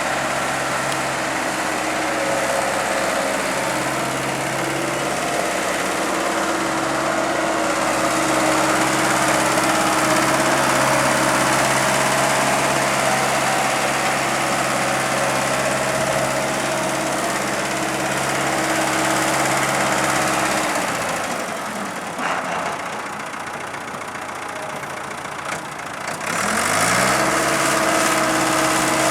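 Ford 555D loader backhoe's diesel engine running steadily. About 21 seconds in its low note drops away for several seconds, then returns with a rising pitch as the engine picks back up and runs on steadily.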